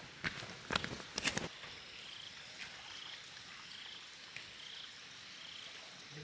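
A few crunching footsteps over the first second and a half, then a faint, short high trill that repeats about every three quarters of a second from a small calling animal, most like a frog.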